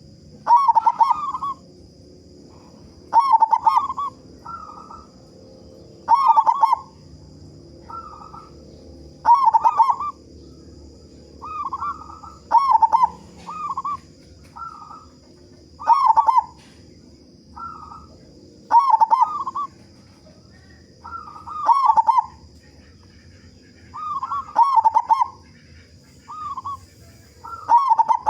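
Zebra dove (local perkutut) cooing repeatedly in phrases of rolling notes. A loud phrase comes about every three seconds, with shorter, quieter phrases between.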